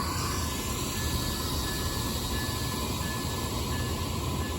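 Amtrak Superliner train with its two Siemens Charger diesel locomotives running: a steady low rumble with a faint steady whine over it.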